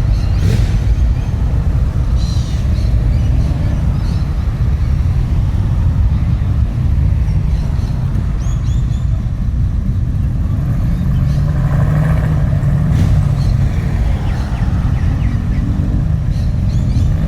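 Car engine running close by with a deep, loud rumble; a steadier engine note stands out about two-thirds of the way through.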